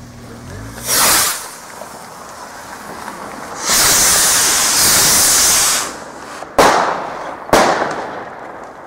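Fireworks being set off: a short hissing whoosh, then a louder hiss lasting about two seconds, then two sharp bangs about a second apart, each trailing off.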